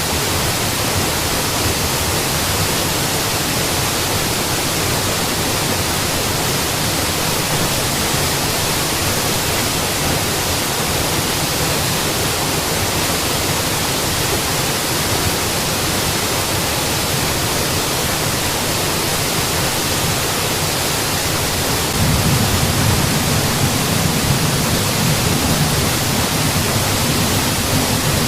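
Mountain waterfall: a steady, even rush of falling water with no breaks. About three-quarters of the way through, the deeper part of the rush steps up and gets a little louder.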